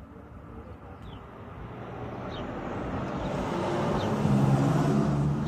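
A vehicle passing by, a steady noise with a low hum that grows louder to a peak about four seconds in and then begins to fade.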